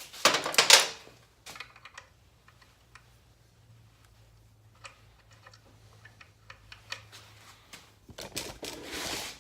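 Steel sockets and hand tools clinking and rattling: a loud burst of rattling in the first second, scattered light metallic clicks, then another rattling, scraping burst near the end.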